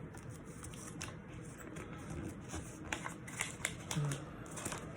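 A sheet of paper being folded and creased by hand into a paper airplane, making irregular soft rustles and crisp little crease clicks.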